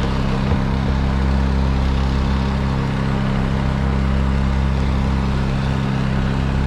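A heavy engine running steadily at constant speed, its pitch unchanging.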